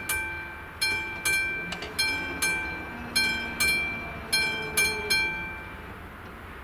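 Czech level crossing warning bell striking repeatedly, mostly in pairs about once a second, each ring fading out. The ringing stops a little after five seconds in, as the crossing's warning ends.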